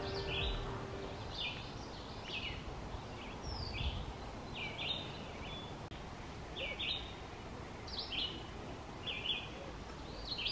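A songbird calling in short chirping notes, one or two a second, over a steady background hiss of woodland ambience. A fading strain of background music ends about a second in.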